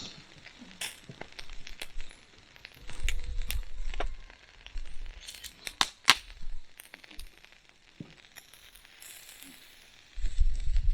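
Sharp metallic clinks and ticks around a small fire pit, scattered through, with the loudest pair about six seconds in, over light crackling from the fire. Low rumbles come twice, once about three seconds in and again near the end.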